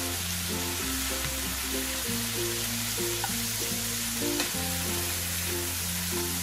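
Shrimp, crab sticks and vegetables sizzling in a frying pan as they are stirred and turned, with a single knock of the utensil against the pan a little past four seconds in. Background music with a steady bass line plays under it.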